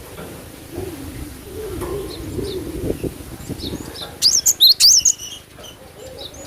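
A cinereous tit (gelatik batu) sings a quick burst of sharp, high chirps with fast pitch sweeps, about four seconds in. Before it, a low wavering cooing call is heard.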